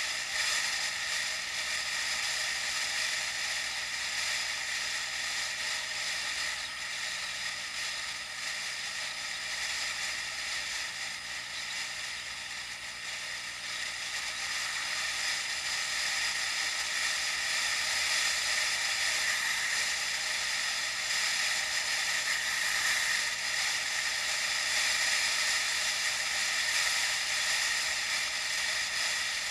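Steady hissing noise of a bicycle in motion: tyre and drivetrain whirr with wind, heard through an action camera's microphone, which leaves it thin with little low end.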